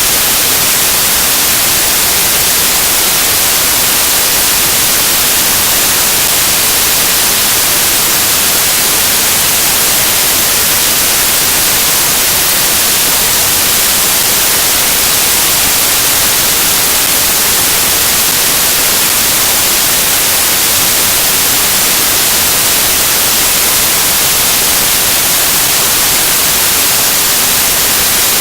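Loud, steady static hiss like white noise, unchanging throughout, with no other sound.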